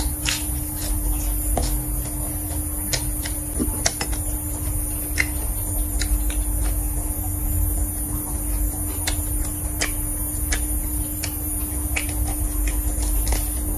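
Close-up chewing of crisp lettuce: scattered short crunches and mouth clicks over a steady low hum.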